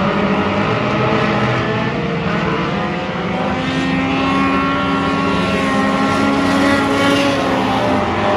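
Race car engine running hard at high revs, steady and loud, its note climbing slightly in pitch in the second half.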